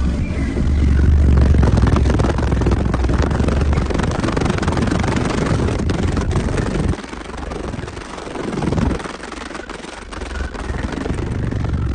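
Car audio system playing bass-heavy music very loud, the deep bass dominating. The bass drops away briefly about seven seconds in and again about nine seconds in.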